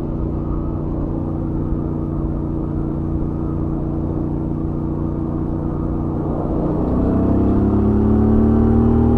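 Royal Enfield Interceptor 650's stock parallel-twin engine at steady cruising revs on the highway. About two-thirds of the way through it pulls harder, getting louder with its pitch rising as the revs climb.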